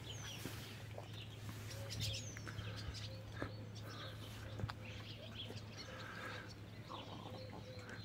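Faint birds chirping and calling, with short high whistles and scattered chirps here and there.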